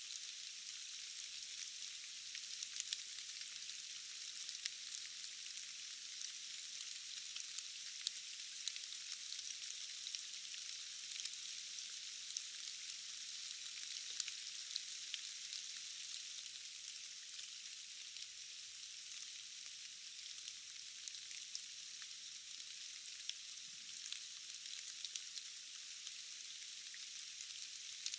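Steady rain falling in a forest, a soft even hiss with many small scattered drop ticks. The sound is thin, with nothing low in it.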